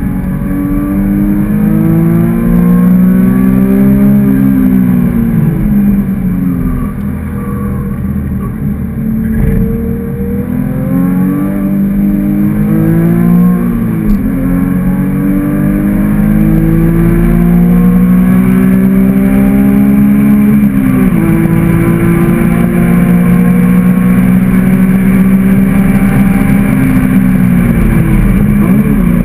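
Porsche 997.2 GT3's flat-six engine, fitted with an aftermarket muffler, at full track pace, heard from inside the cabin. Its pitch climbs through the revs and drops back several times as the driver shifts and lifts for corners.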